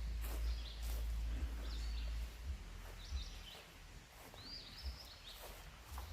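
A bird calling repeatedly in short chirped phrases, about one a second, over a low wind rumble on the microphone that is strongest in the first two seconds.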